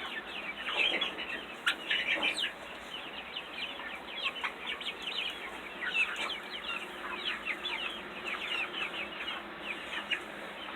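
A flock of chickens clucking and peeping as they feed, many short high calls overlapping continuously.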